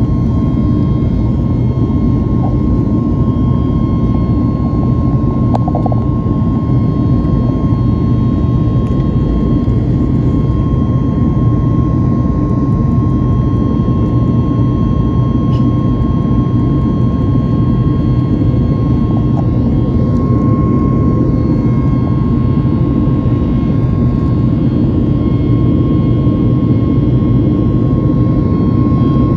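Boeing 737 MAX 8 jet engines and airflow: a steady, loud drone with an even whine on top, unchanging throughout.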